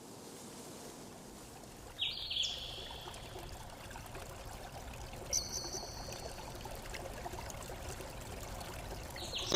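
Two short high whistled bird calls, the first about two seconds in and a higher, steadier one a few seconds later, over a faint steady hiss like running water.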